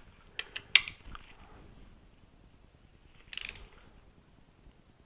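Ratcheting torque wrench running bolts down on an aluminium engine cover: a few sharp clicks within the first second, then a short quick run of ratchet clicks a little past three seconds.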